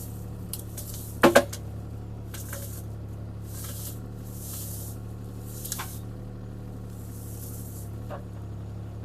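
CAT 303C CR mini excavator's diesel engine running steadily while it pulls a tree down, with two sharp cracks about a second in and then several brief swishing hisses.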